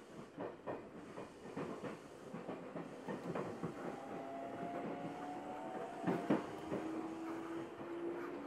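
Seibu 9000 series electric train running: wheels clicking over rail joints, with a sharper knock about six seconds in. From about four seconds in, a motor whine rises slowly in pitch as the train picks up speed.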